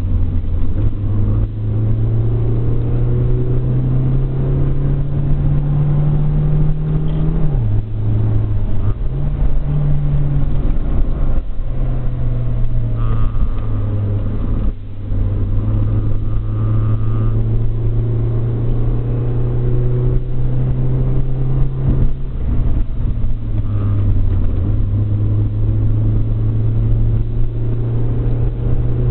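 Car engine and road noise heard from inside the cabin while driving through winding bends. The engine's steady low note creeps up in pitch and then steps down sharply about a quarter of the way in, and shifts up and down a few more times later.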